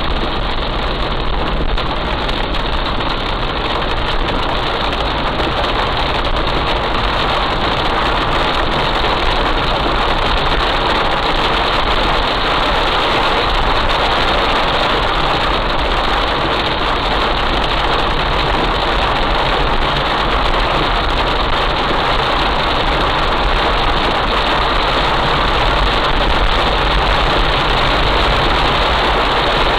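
Heavy rain falling, a steady, dense rush of noise that does not let up.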